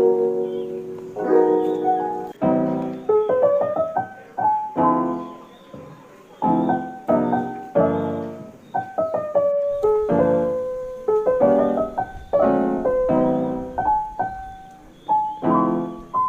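Background music: piano notes played in phrases, each struck and fading.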